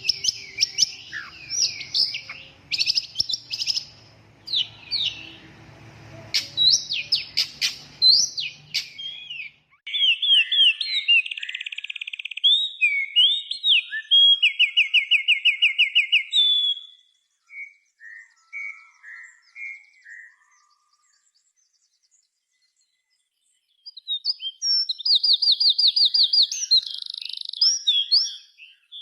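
A songbird singing loudly: quick chirps and whistled notes at first, then fast, rattling trills of rapidly repeated notes around the middle. After a pause of a few seconds, one more fast trill comes near the end.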